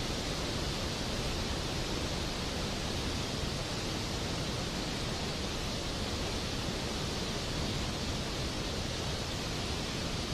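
Steady, even rain noise with no distinct drops, thunder or music.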